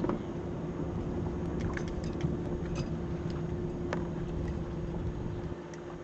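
A boat's engine hums steadily under wind and water noise. There is a knock right at the start and a few light clicks in the middle.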